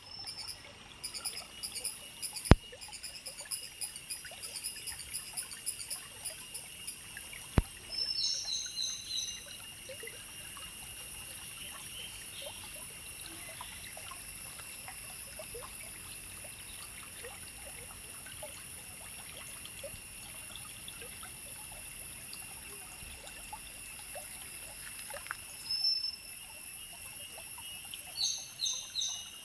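Countryside ambience of water trickling under a steady high-pitched insect drone. A bird gives short two- and three-note calls about eight seconds in and again near the end. Two sharp clicks come early on.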